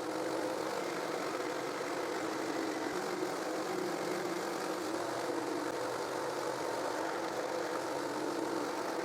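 Table-mounted jigsaw running steadily while cutting plywood into narrow strips for sled runners.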